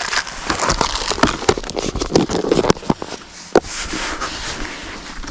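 Plastic groundbait packaging rustling and crinkling as it is handled and emptied, with irregular crackles and light taps.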